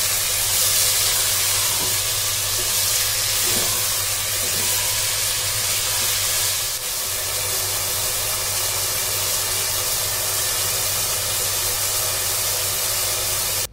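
Chicken pieces sizzling steadily as they fry in oil and their own released juices in a nonstick pot, with a low hum underneath. The sizzle cuts off abruptly at the end.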